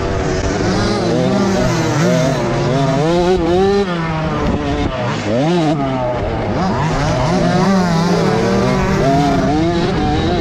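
Several motocross bike engines revving over one another on the track, their pitch repeatedly rising and falling, with one sharp climb and drop about five seconds in.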